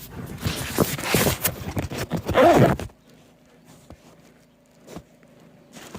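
Huskies scrambling and scuffling through deep fresh snow for about three seconds, ending in a short cry, then it goes much quieter with only a few faint ticks.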